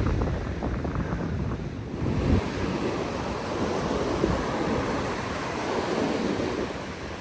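Ocean surf washing on the beach, with wind buffeting the microphone, heaviest in the first couple of seconds.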